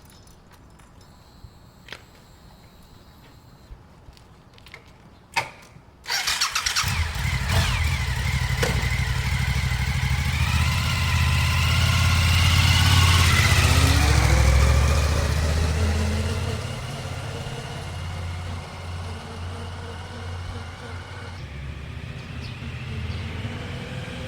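Suzuki SV1000's 90-degree V-twin engine starting about six seconds in after a few faint clicks, then revving up and easing back before settling into a steady idle.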